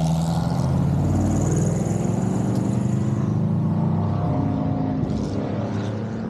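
Classic rally car's engine pulling hard away from a bend, its note rising and breaking off in steps through gear changes, then slowly fading as the car goes away.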